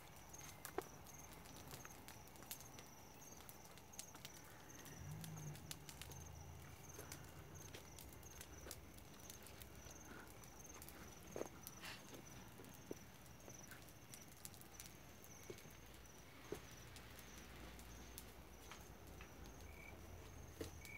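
Faint crackling of a campfire: scattered small pops and snaps. A cricket keeps up a steady, high trill behind it.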